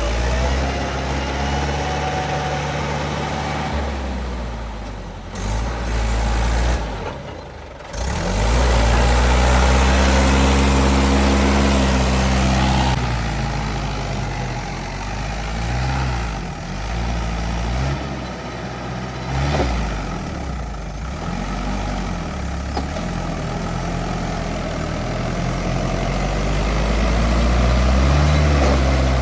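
Tractor diesel engine running under load, its pitch repeatedly rising and falling as it revs up and eases off.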